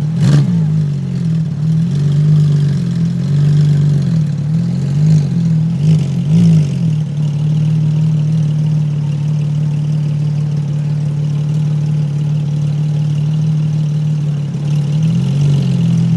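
Car engine idling close by. Its pitch rises and falls slightly a few times over the first seven seconds and again near the end, with a sharp click right at the start.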